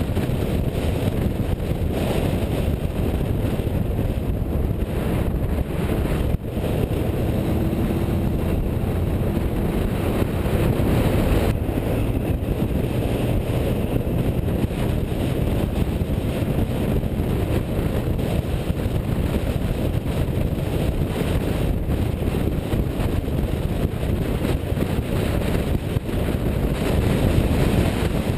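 A classic car driving steadily, its engine and road noise mixed with wind buffeting the microphone.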